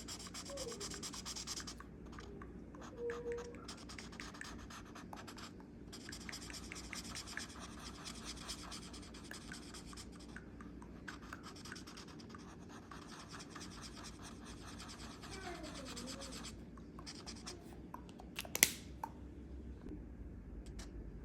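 Quick, repeated scratching strokes of a drawing tool on paper, as someone draws. A single sharp click sounds near the end.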